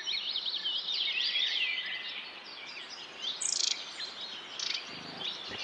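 Birds chirping: many quick, high-pitched calls and trills, repeated throughout, over a steady hiss, with a brief buzzy note a little past the middle.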